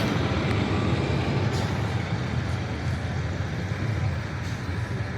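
Heavy vehicle's engine rumbling steadily as it rolls slowly past, gradually getting quieter.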